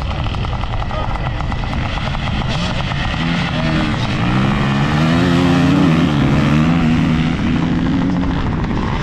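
Motorcycle engines racing flat out in a drag race. The pitch climbs and drops several times as the bikes accelerate and change gear, loudest a little past the middle.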